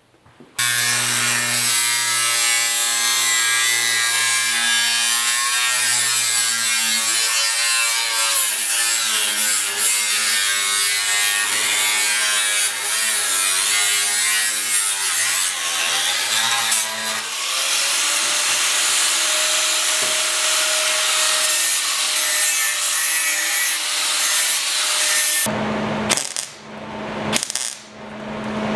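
A power tool working on the rusted steel seat pan, its motor pitch wavering under load. It runs for about 25 seconds and stops near the end.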